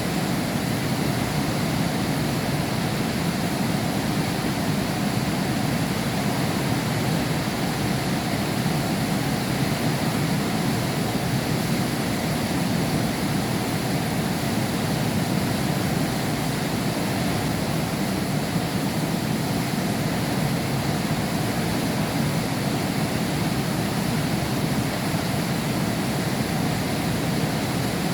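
Heavy rain falling steadily, heard from behind a window: an even, unbroken rush.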